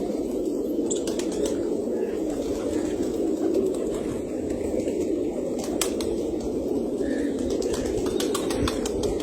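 Many penned birds cooing together in a steady, unbroken low chorus, with scattered sharp clicks and taps.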